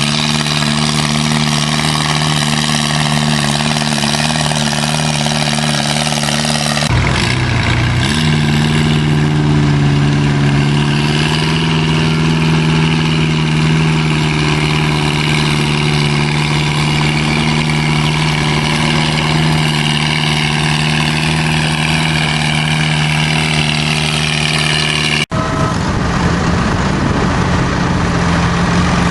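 Antique tractor engine running steadily. The sound changes abruptly about seven seconds in, the engine's pitch climbs a little just after, and it changes abruptly again near the end.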